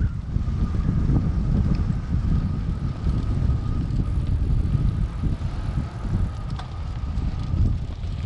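Wind buffeting the microphone: a steady, gusting low rumble, with a faint steady high tone running beneath it.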